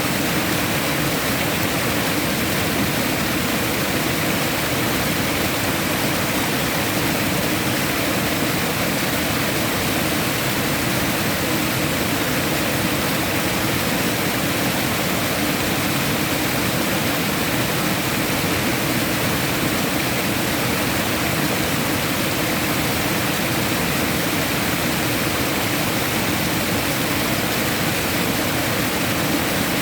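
Steady, unbroken rush of flowing water, even and constant throughout.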